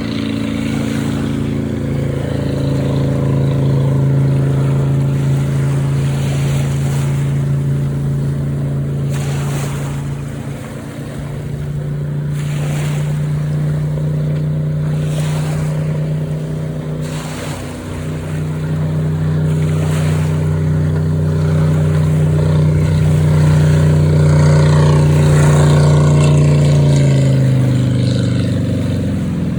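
Motorboat engine running under way, mostly at a steady pitch with two brief dips, then slowing down with a falling pitch near the end.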